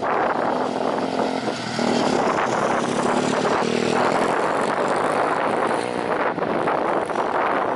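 Airliner engines running as the aircraft passes low near the runway, a steady drone with a faint low hum.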